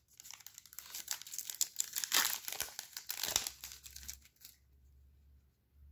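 Foil trading-card pack wrapper crinkling as it is handled and torn open, dense crackling that dies away about four seconds in.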